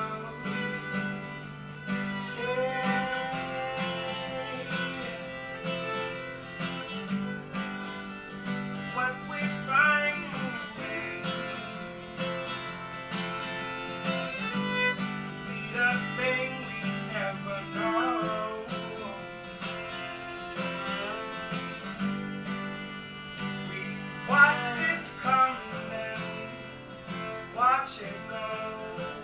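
Acoustic guitar and a second string instrument playing an instrumental passage, with a melody line that slides between notes over steady chords.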